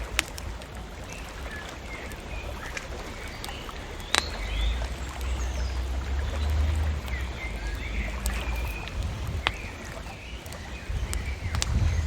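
Bonfire crackling with sharp pops, the loudest about four seconds in, while small birds chirp. A low rumble runs underneath and grows louder near the end.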